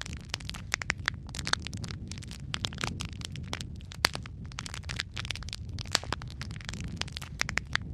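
Wood fire crackling in a fireplace: irregular sharp snaps, several a second, over a steady low rumble of the flames.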